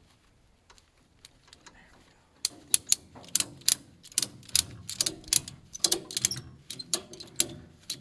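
Quick, irregular run of sharp mechanical clicks and clanks, starting about two and a half seconds in.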